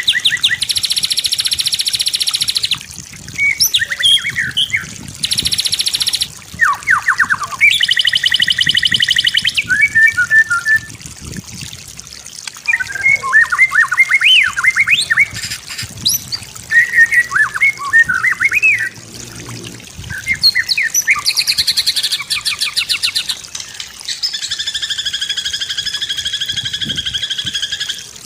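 White-rumped shama singing a varied song: long stretches of very rapid trilling alternate with quick whistled notes that slide up and down.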